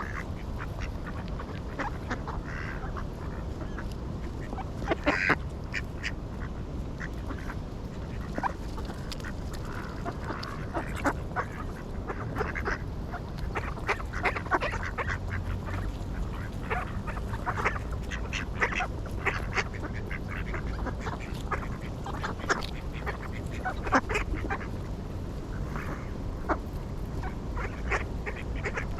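A flock of ducks quacking, many short calls overlapping throughout, with a steady low rumble underneath.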